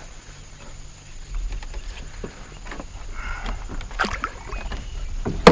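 Water sloshing and splashing at the side of a small skiff as a big seatrout is held in the water to revive it, with a few light knocks and one sharp knock near the end.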